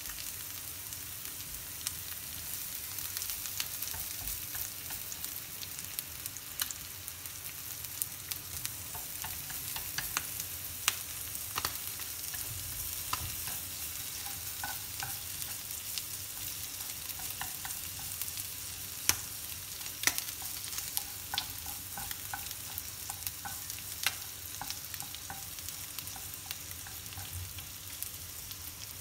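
Crisp-fried small goby fish and chopped garlic sizzling in oil in a nonstick frying pan while being stirred with wooden chopsticks, the garlic being fried until fragrant. A steady sizzle runs throughout, dotted with many short sharp clicks.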